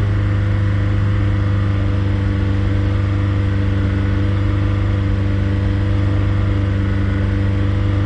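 Honda S2000's four-cylinder engine running steadily at a fixed speed, fully warmed up, heard from inside the cabin.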